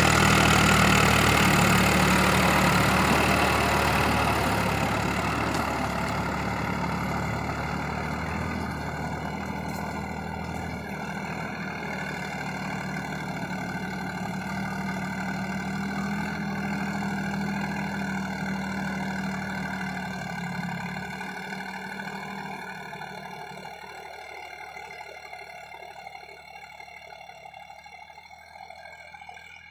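Tractor diesel engine running, growing steadily fainter; its low drone drops away about twenty-one seconds in.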